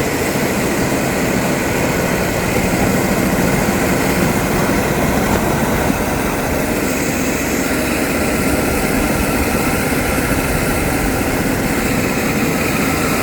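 A steady engine running at an even speed, with no clear changes in pitch or level.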